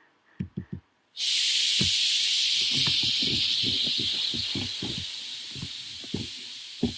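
A sudden loud hiss starting about a second in and slowly fading, with light tapping clicks underneath.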